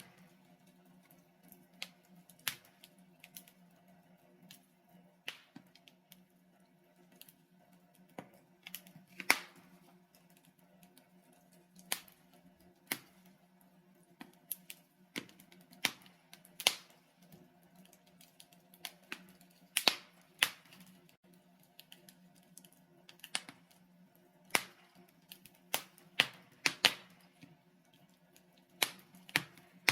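Logs burning in a fireplace, crackling with irregular sharp pops and snaps, some in quick clusters, over a faint steady low hum.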